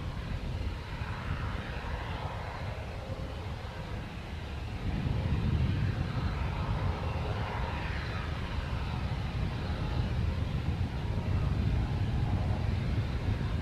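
Fixed-wing aircraft engines running, a continuous low rumble that grows louder about five seconds in.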